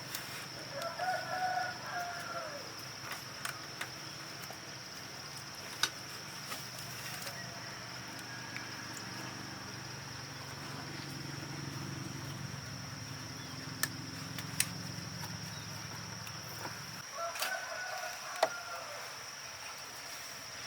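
A rooster crowing twice, once near the start and once near the end, over a steady high-pitched insect whine and a few sharp clicks. A low hum stops about three-quarters of the way through.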